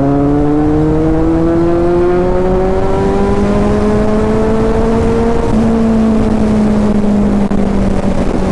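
Kawasaki Z800's inline four-cylinder engine pulling under acceleration, its note rising steadily for about five seconds, then stepping and easing off a little, over wind rumble on the microphone.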